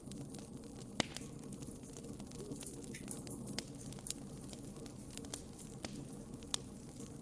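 Wood fire burning in a fireplace: a steady low rumble with scattered sharp crackles and pops from the burning logs, the loudest about a second in.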